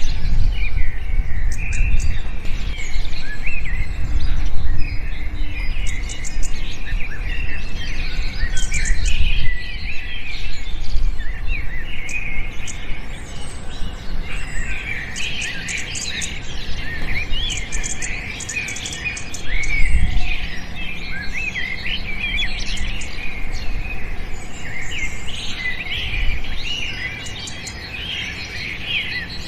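Many birds chirping and twittering together in a dense, unbroken chorus of short high calls, over a low rumble.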